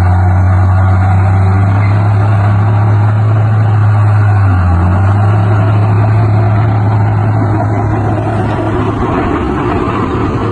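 Heavy diesel earthmoving machinery running steadily with a deep, loud engine hum that dips briefly about halfway through and fades near the end.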